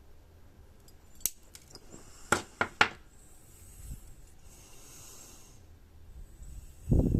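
Side cutters snipping the excess leads of freshly soldered resistors on a circuit board: four sharp snips, three of them in quick succession. A low thump near the end.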